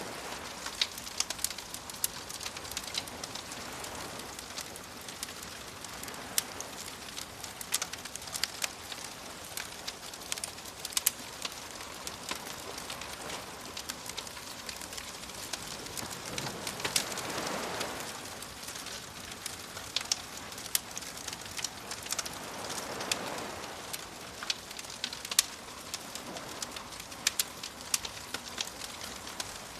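Wood fire crackling with frequent sharp pops and snaps, over soft waves washing in; two waves swell up about halfway through and again near three quarters of the way.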